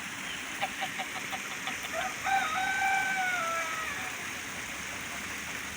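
Rooster crowing: a quick run of short clucking notes, then one long drawn-out crow that sags in pitch at its end, over the steady rush of running water.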